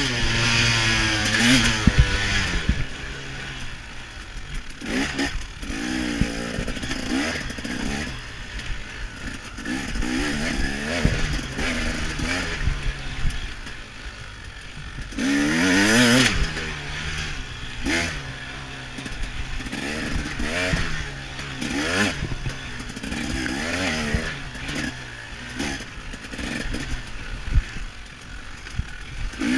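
KTM 300 XC-W two-stroke dirt bike engine under racing load, revving up and falling back again and again as the rider accelerates and shuts off. The revs peak loudest at the start and again about halfway through.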